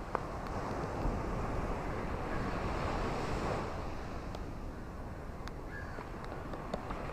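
Ocean waves washing onto a shore: a steady rush of surf that swells to a peak about two to three seconds in and then eases off, with a few faint clicks.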